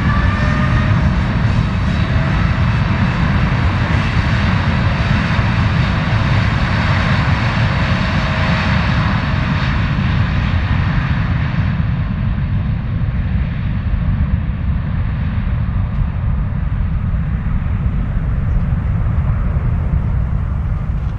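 Jet airliner passing close: its engine whine glides down in pitch at the start, then the engine noise slowly fades and dulls as the aircraft moves away, leaving a heavy low rumble.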